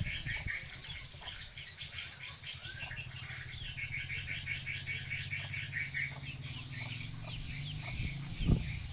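Many swiftlets twittering: dense, rapid trains of high chirps, over a low steady hum, with a single thump near the end.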